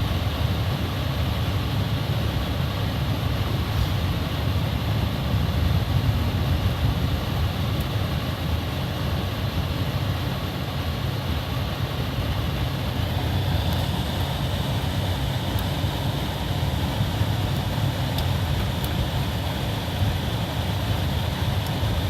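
Steady low rumble of a car driving on a snow-covered road, heard from inside the cabin: engine and tyre noise with no break.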